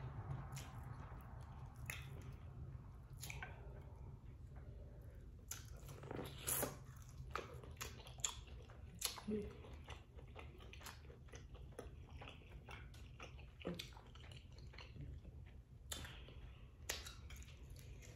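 A person eating: chewing and biting boiled corn on the cob and shrimp, with scattered wet mouth clicks over a steady low hum.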